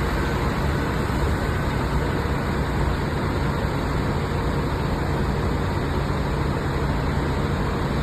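Scania bus's diesel engine running steadily with a constant low hum and road noise.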